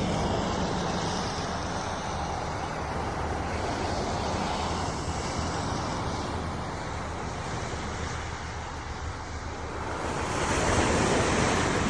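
Waves washing in: a steady rushing noise that swells louder about ten seconds in.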